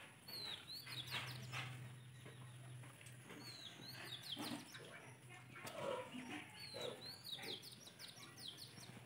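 Faint chirping of small birds: short, high, quick calls in small clusters about every three seconds, over a low steady hum.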